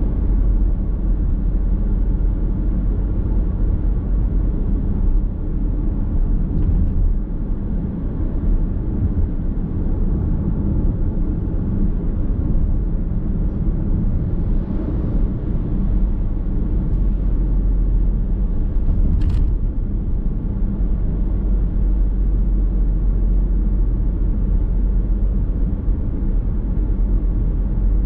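Car driving at road speed, heard from inside the cabin: a steady low rumble of tyres on the road and running gear, with a couple of faint brief ticks.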